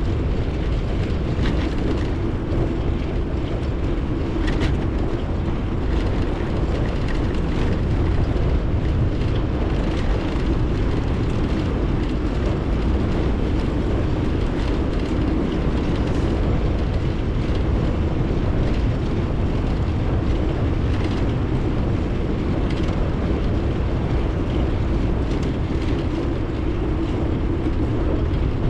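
Steady rumble of a bicycle in motion: tyres rolling on the road and airflow over the action camera's microphone, with faint small ticks and rattles now and then.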